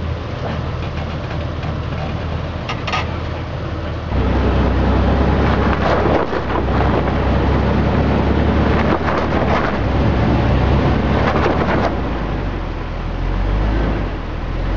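Jeep engine idling steadily; about four seconds in it gives way to a louder engine running under load during a tow over rock, with several rough swells of noise.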